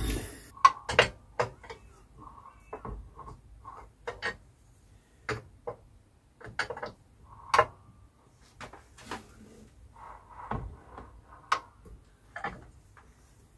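Irregular light metallic clicks and knocks as the 1927 Riley 9 engine, just mated to its gearbox, is turned over by hand. The clicking is the clutch arm resting against the flywheel until it is set in position.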